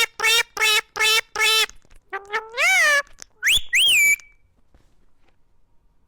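A parrot calling: a run of short, evenly repeated pitched notes at about two and a half a second, then a longer rising-and-falling call and two high whistled glides that break off about four seconds in.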